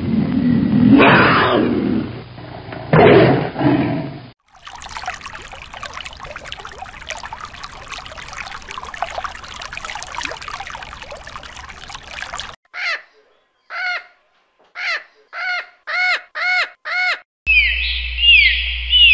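A lion growling and roaring, loudest twice in the first few seconds. Then about eight seconds of water splashing as koi crowd at the surface, followed by a run of short pitched calls coming faster and faster. It ends with dolphins' high, repeated descending whistles over a low hum.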